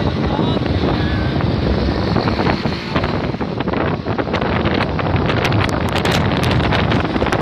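Wind buffeting the microphone: a steady heavy rumble, with crackling clicks from about five seconds in.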